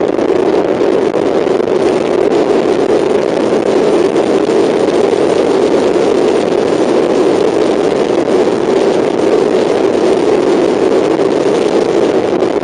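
Mazda MX-5 race car's four-cylinder engine running hard at a steady pace on track, heard onboard as a loud, unbroken drone.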